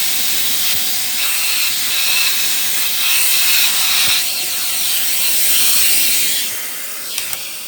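Shark vacuum cleaner running with an attachment, a steady loud hiss of suction with a few small clicks, then switched off near the end, the motor's whine falling as it winds down.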